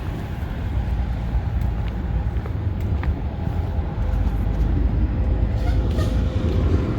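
Steady road and engine rumble of a Ford E-350 van being driven.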